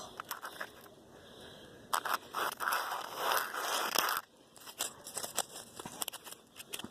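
Close crunching and crackling right at the microphone, made on purpose as a short ASMR clip: a run of crisp crackles, with a louder rustling crunch about two to four seconds in.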